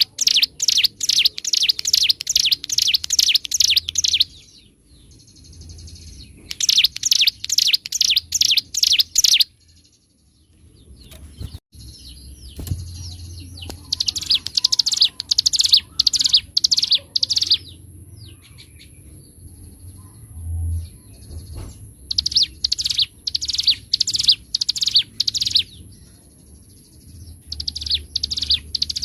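Ciblek gunung, a small prinia, singing in fast bursts of sharp, evenly repeated chirps, the rapid 'drilling' song that keepers call ngebren. There are five phrases of a few seconds each, with short pauses between.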